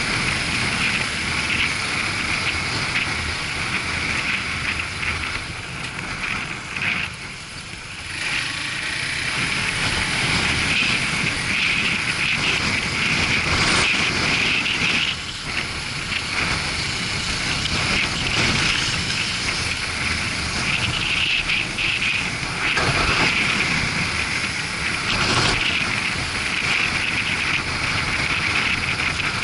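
Riding-along sound of a motorcycle: a steady mix of engine and rushing wind noise, dipping briefly about seven seconds in.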